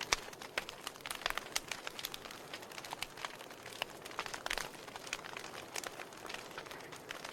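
Wood fire in a fireplace crackling: irregular sharp pops and snaps from the burning logs over a soft steady hiss.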